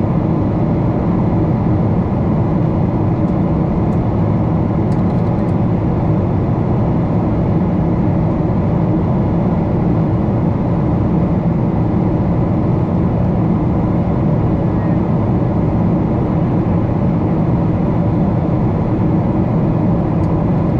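Steady, loud cabin noise of a Boeing 777-300 airliner: engines and airflow as heard inside the passenger cabin, a dense even rumble that barely changes.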